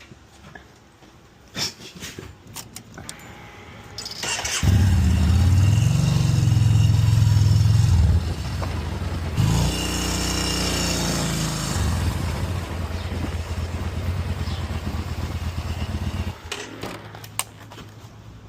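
A motor vehicle engine starts about four seconds in and runs loudly, with a brief rise in pitch near the middle like a rev, then stops abruptly a couple of seconds before the end.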